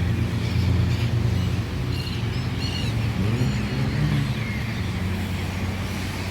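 Street traffic: a motor vehicle's engine running close by with a steady low hum, and a few short bird chirps about halfway through.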